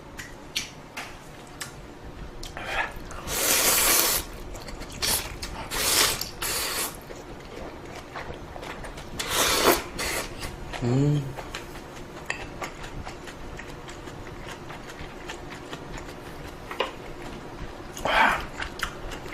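Ramen noodles being slurped in several loud bursts, with close-up chewing and small clicks of utensils against the bowl between them.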